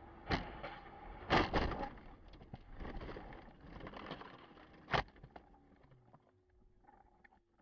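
Vehicle collision: a bang, then a louder cluster of impacts about a second later, and another sharp bang about five seconds in, over vehicle noise that fades toward the end.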